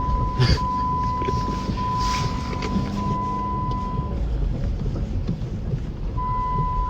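Inside the cabin of a 2009 Jeep Commander with the 5.7 L Hemi V8, driving through snow in four-wheel-drive low, with a steady low rumble of engine and road. A steady high electronic beep sounds in long, slightly broken tones, stops about four seconds in and comes back near the end. Two brief hisses come about half a second and two seconds in.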